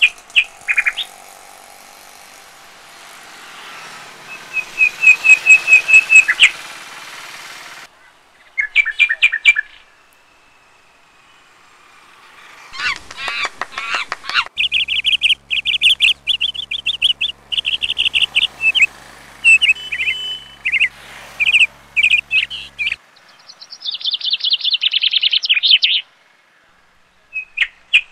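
Birds chirping in bursts of quick, repeated notes, with short quiet gaps between the bursts. The loudest is a fast run of about a dozen chirps around five to six seconds in.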